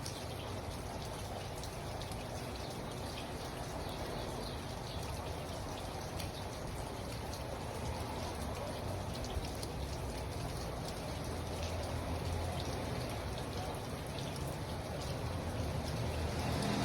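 Steady rain falling, a continuous wash of drops pattering on surfaces.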